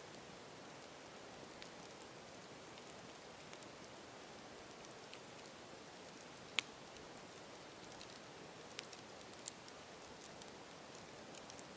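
Campfire burning with a steady soft hiss and scattered crackles, one sharp pop a little past halfway and a couple of smaller pops later.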